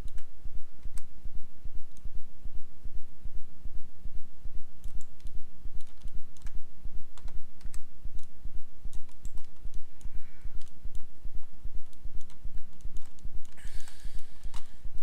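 Scattered computer mouse and keyboard clicks over a low hum that pulses evenly about three times a second.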